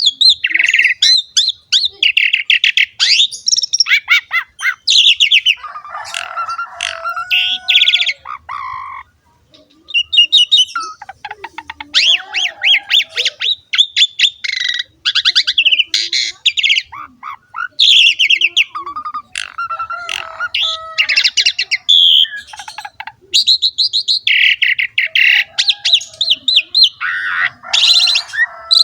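Asian pied starling (jalak suren) singing loudly and continuously: rapid chattering trills mixed with harsh squawks and short clear whistles, with a brief pause about nine seconds in.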